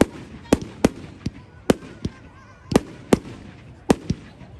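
Fireworks going off: an irregular run of sharp bangs, about nine of them, some in quick pairs.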